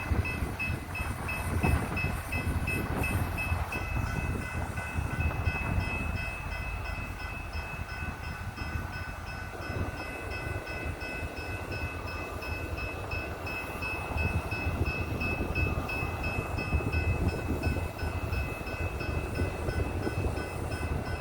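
Coal train rolling slowly on the rails, the cars rumbling, with a steady high-pitched squeal or whine over it.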